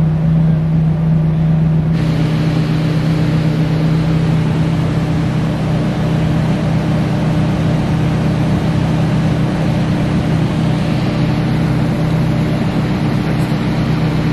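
Nissan SR20 four-cylinder engine held at a steady speed on a dyno, a loud continuous drone whose pitch stays the same. Its sound changes abruptly about two seconds in, then holds steady again.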